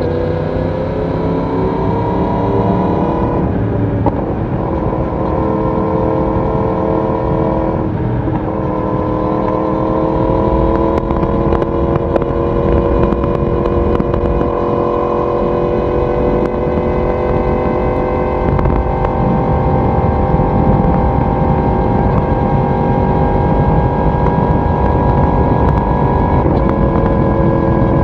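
Yamaha YZF-R1 inline-four exhaust under way, climbing in revs with two brief breaks about 3.5 and 8 seconds in, typical of upshifts, then rising slowly into a steady cruise and easing slightly near the end. A steady rush of wind and road noise runs beneath it.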